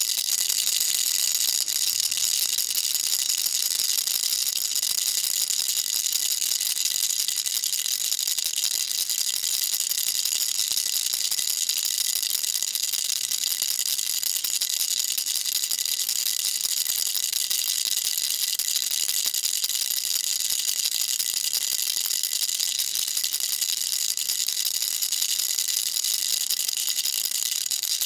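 A baby rattle shaken without pause, giving a steady, dense, high-pitched rattle.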